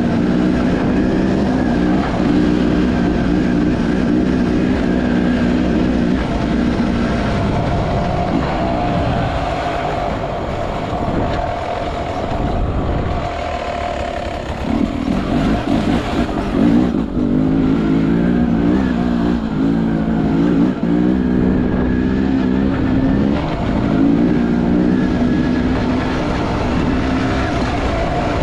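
Beta 300 RR two-stroke enduro motorcycle engine running under load, its revs rising and falling as the throttle works. It eases off for several seconds before the middle, then pulls hard again from about halfway.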